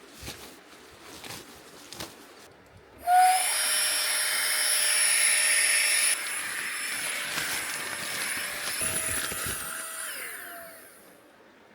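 A small electric motor blowing air starts suddenly after a few soft clicks, runs steadily with a whine and a rush of air, drops a step in level partway through, then winds down with a falling tone.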